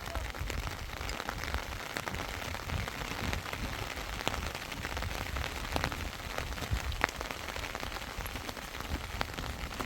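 Rain falling steadily: an even hiss with many scattered sharp ticks of single drops.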